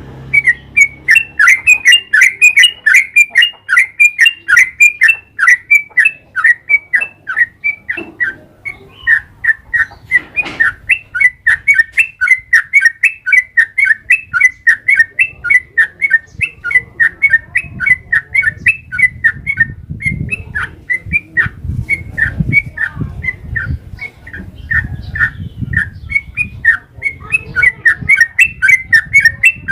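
Yellow-vented bulbul (trucukan) singing a long, unbroken run of short, loud chirping notes, about three a second, with only a brief pause about eight seconds in.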